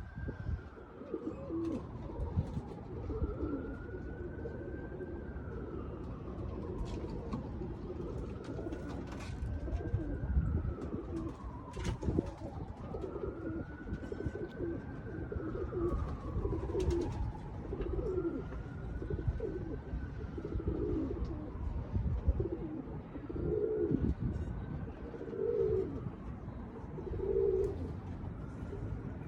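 Pigeons cooing, low repeated coos that grow clearer near the end, over wind buffeting the microphone. A faint tone swoops up and back down about every three seconds throughout.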